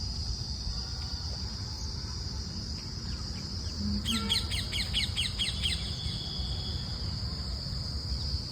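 Insects, crickets by the sound, keep up a steady high-pitched trill, and about four seconds in a bird sings a quick run of short repeated chirps lasting under two seconds. A low rumble sits underneath.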